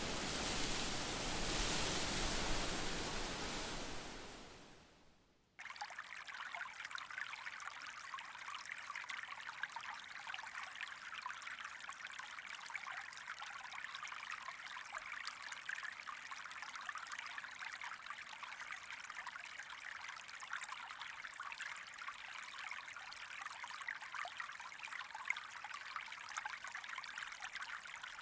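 Small stream trickling and babbling steadily. It cuts in abruptly about five and a half seconds in, after a broad rushing noise has faded out.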